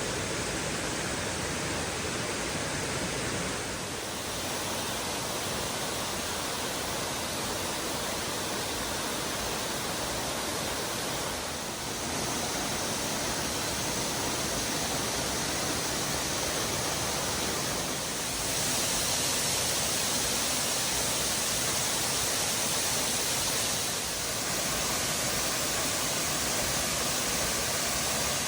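Waterfall: a steady rush of water falling and crashing over rock, its level stepping up and down a few times.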